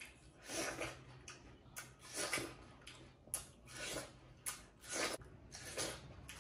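Close-up chewing and biting into a slice of watermelon: a run of short bite and chew sounds, roughly one every half second to a second.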